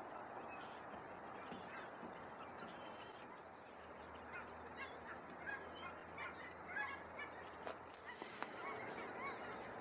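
Faint background of short chirping bird calls over a low steady hiss, with the calls coming more thickly in the second half.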